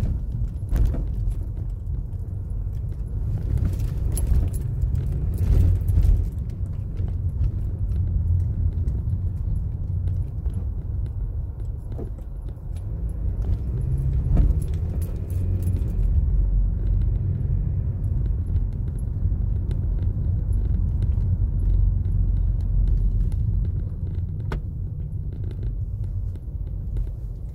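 Toyota Corolla driving on wet city roads, heard from inside the car: a steady low rumble of road and engine noise that swells and eases, with scattered sharp ticks and light rattles.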